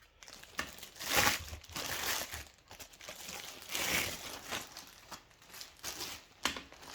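Packaging crinkling and rustling in irregular bursts as the vacuum cleaner's extension pipe is unwrapped and handled. The loudest bursts come about a second in and again near four seconds.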